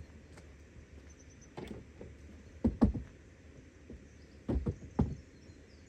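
Several short knocks and thumps, a close pair about three seconds in and two more near the end, over a low steady background hum.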